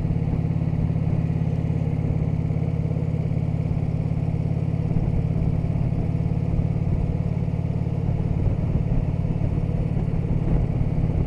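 Harley-Davidson touring motorcycle's V-twin engine running at a steady cruise, with road and wind noise.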